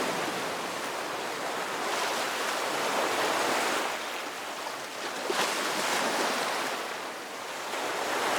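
Ocean surf: waves breaking and washing in a steady rush that swells and eases every few seconds.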